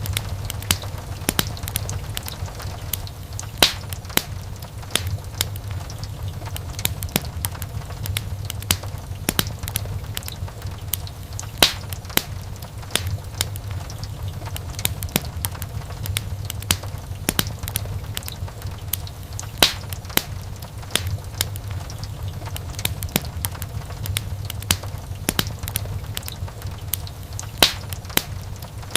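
Wood fire burning in a fireplace: constant crackling and popping, with a louder pop every several seconds, over a steady low rumble of the flames.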